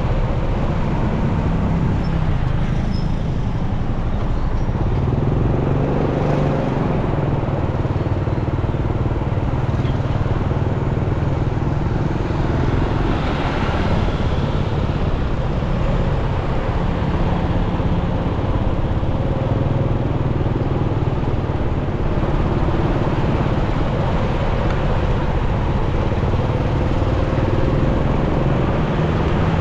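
Motorcycle engine running steadily while riding through city traffic, over a constant haze of road and wind noise. The engine pitch shifts now and then, with one rise about five seconds in.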